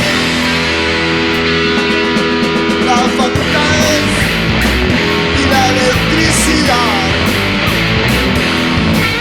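Rock music in an instrumental passage with electric guitar and drums, no singing. The low end is thin for about the first three seconds, then the full band comes back in.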